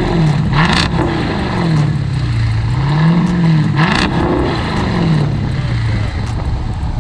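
2012 Jeep Grand Cherokee SRT8's 6.4-litre HEMI V8 being revved while parked through a modified, straight-piped exhaust. It is blipped up and down several times, with the highest rev about three seconds in, then drops back toward idle near the end.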